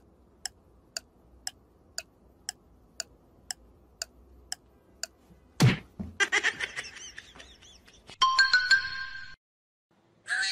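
Edited-in sound effects: an even ticking at about two ticks a second, then a sudden thud, a short jumble of chirps, and a bright chime of several held tones.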